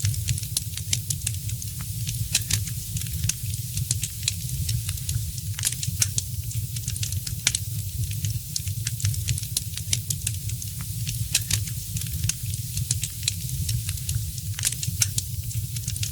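Wood fire crackling in a fireplace: many irregular sharp pops and snaps over a steady low rumble and hiss of the flames.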